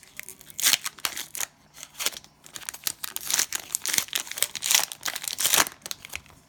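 Cellophane trading-card pack wrapper crinkling and tearing as it is opened, in an irregular string of sharp rustles that is busiest in the second half.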